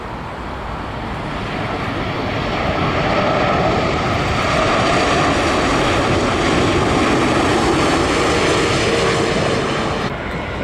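Jet airliner passing low overhead on final approach to land. Its engine noise swells over the first few seconds, holds loud with a faint whine in it, then drops off near the end.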